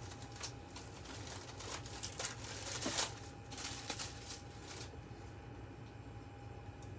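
Artificial flowers being handled for a craft: light rustling and small clicks, busiest in the first few seconds with a slightly louder click about three seconds in, then thinning out.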